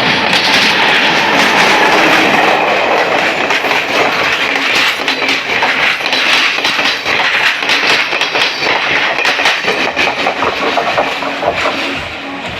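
A train passing close by, loud, its wheels clattering over the rail joints in a rapid run of clicks.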